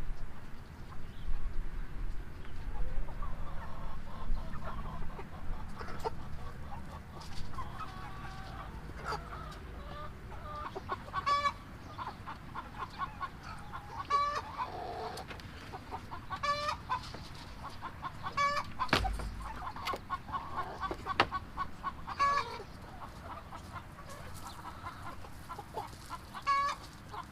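Chickens clucking, with short runs of rapid clucks every few seconds and a single sharp knock about two-thirds of the way through.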